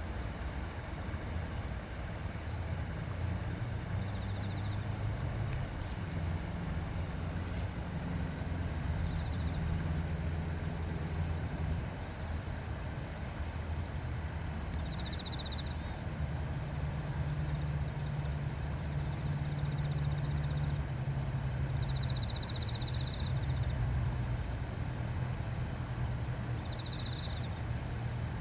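River murmuring steadily, with a deep rumble of flowing water underneath. Several short, high-pitched trills come through over it at intervals.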